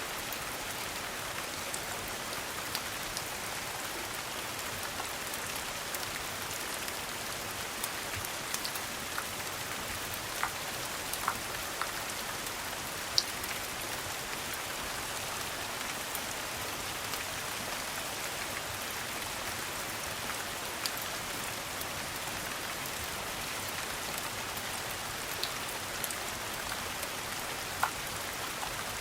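Steady rain falling, an even hiss, with a scattering of sharp single ticks and pops through it.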